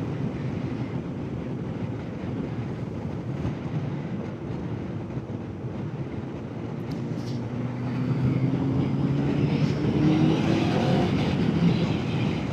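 Honda motorcycle engine running on the move, with wind noise on the microphone; about eight seconds in the engine pitch climbs and it gets louder as the bike accelerates.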